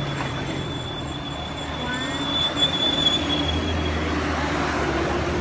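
A motor vehicle passing close on a narrow mountain road, its engine rumble growing louder about halfway through. Over it runs a thin, steady high-pitched squeal for about four seconds that fades out near the end.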